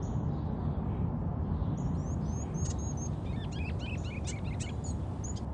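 Small birds chirping in quick, high, short calls, starting about two seconds in and bunching together near the end, over a steady low rumble.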